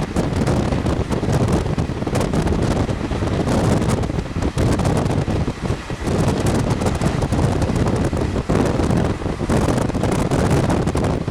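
Wind buffeting the microphone of a moving passenger train, with the train's running noise underneath. The noise is loud and steady, with constant small gusts.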